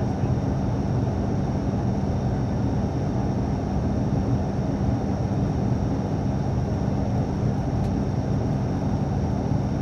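Cabin noise inside an ATR turboprop airliner: a steady engine and propeller drone with a constant low hum and a faint high whine, unchanging throughout.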